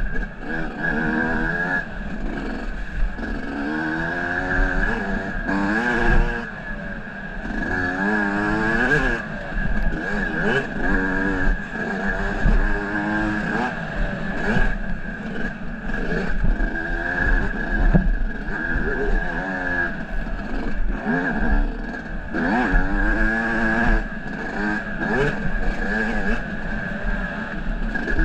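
Off-road vehicle engine being ridden hard, revving up and falling back over and over every second or two, with a steady high whine running underneath and occasional knocks and rattles.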